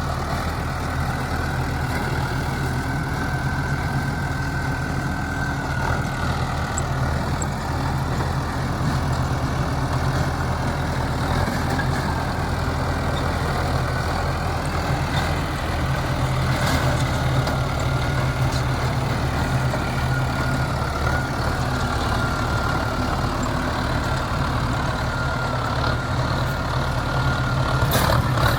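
Mahindra Arjun Novo 605 tractor's diesel engine running steadily at a constant speed, with no revving.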